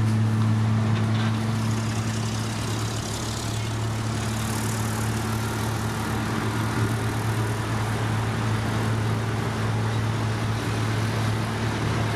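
Heavy road-construction machinery running: a diesel engine at a steady low hum, with mechanical noise over it.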